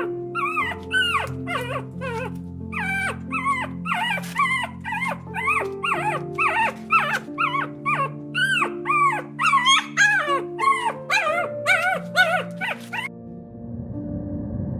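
A fast series of short, high, yipping animal calls, each rising and falling in pitch, about two or three a second, over background music; the calls stop shortly before the end.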